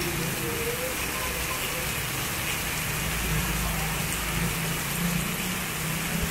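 Heavy rain pouring down steadily, with a low hum underneath that swells around the middle.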